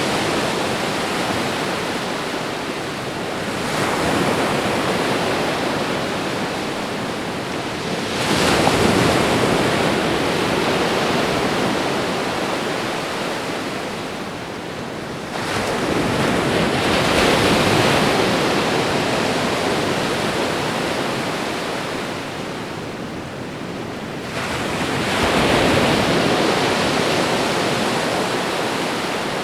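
Ocean waves washing onto a shore, each wave swelling in a surge of noise and fading back, one about every seven to eight seconds, over a steady wash of surf.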